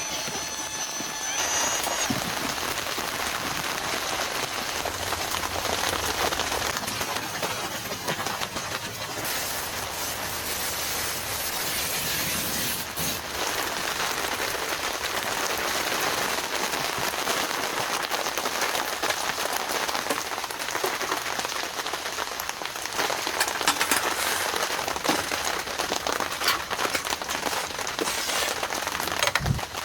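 Heavy rain falling steadily, a dense even hiss of drops. Near the end there is a brief low thump.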